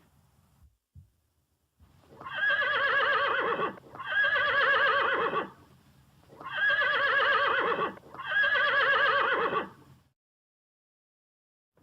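A horse whinnying four times, in two pairs of calls, each about a second and a half long with a quavering, trembling pitch.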